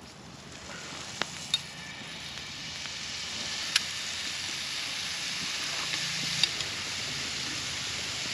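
Smash burger patties sizzling on a Petromax FP40 cast iron pan over a campfire, the sizzle building over the first few seconds and then holding steady. A few short sharp taps cut through it.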